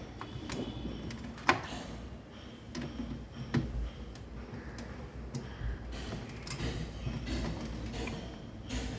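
Irregular light clicks and knocks over a low steady hum, the sharpest about a second and a half in: parts and tools being handled during repair work on a refrigerator.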